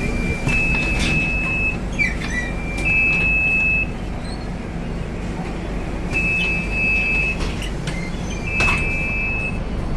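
Scania K250UB city bus's diesel engine running, heard from inside the cabin as a steady low drone. High two-pitch electronic beeps sound four times over it, along with a few clicks and rattles.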